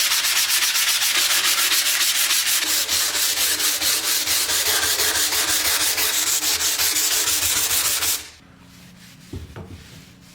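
Sanding: fast, even, rasping strokes of abrasive on a surface, which stop abruptly about eight seconds in. A single light knock follows about a second later.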